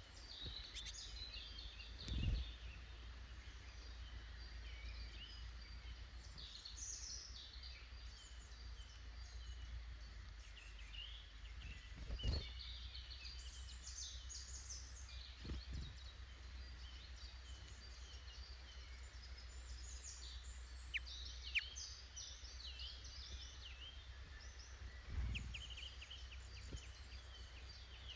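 Wild woodland birds singing and calling, many short chirps and song phrases overlapping throughout, over a steady low rumble. Four brief dull thumps stand out, about two seconds in, near the middle, shortly after, and near the end.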